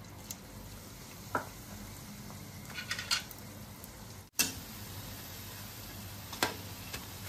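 Batter-coated bread pakora slices sizzling steadily in hot oil in a frying pan, with a few sharp clicks of a metal spatula against the pan.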